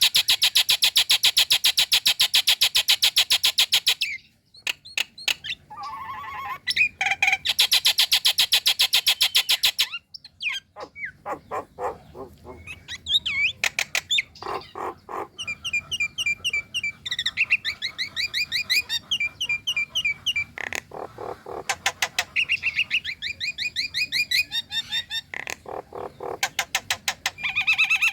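Female Nias hill myna calling: a loud, very rapid harsh rattle lasting about four seconds, then a second rattle, followed by a varied run of whistles, clicks and quick series of short repeated notes.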